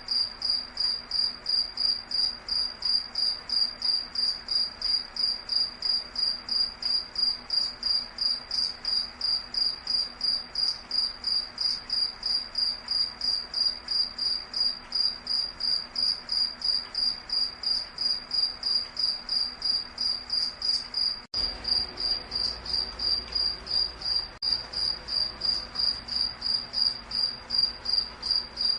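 An insect, a cricket, chirping steadily in one high, evenly pulsed note, with a split-second break about three-quarters of the way through.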